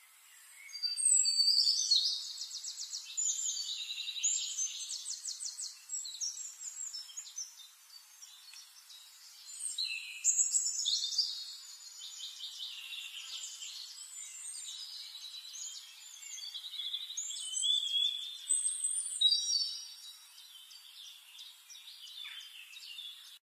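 A songbird singing long phrases of rapid trills and high warbles, loudest in three bursts about a second, ten seconds and eighteen seconds in.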